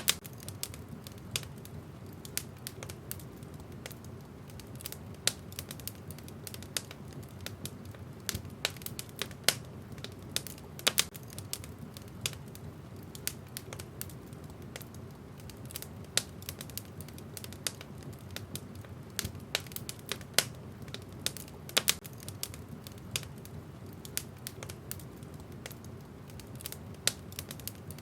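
Wood fire in a fireplace crackling, with frequent irregular sharp pops and snaps over a steady low rush of the flames.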